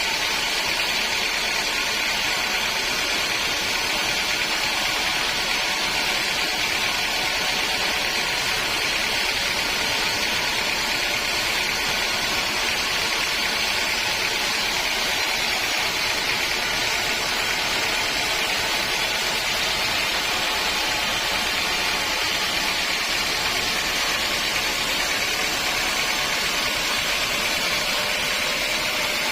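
Sawmill machinery running steadily, a constant hissing whine with no breaks.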